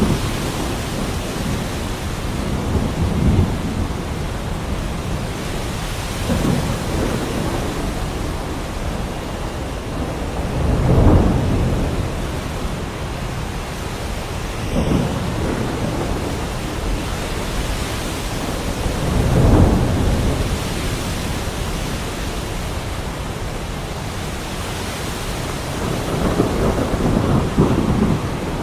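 Heavy rain falling steadily, with thunder rumbling again and again through it in low rolls, the loudest about a third of the way in and again about two-thirds of the way through.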